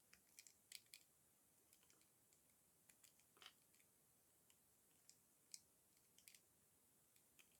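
Dry soap being crushed: faint, sparse crunchy crackles and clicks, a dozen or so scattered irregularly.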